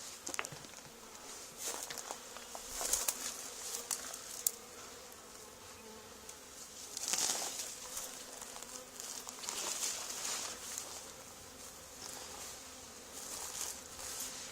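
Honey bee swarm buzzing, a steady hum that swells and fades several times as bees fly close.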